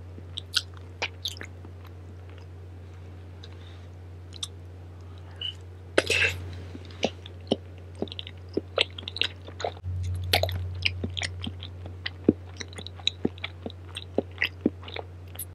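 Close-miked chewing of Korean blood sausage (sundae): many small wet clicks and smacks of the mouth, with a brief louder rush about six seconds in. A steady low hum runs underneath.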